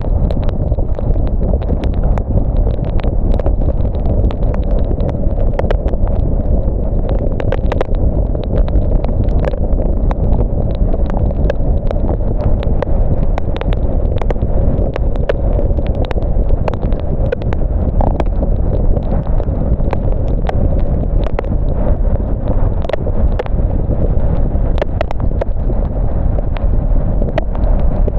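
Steady low rumble of a car driving on wet roads in the rain, with sharp raindrop ticks scattered irregularly throughout.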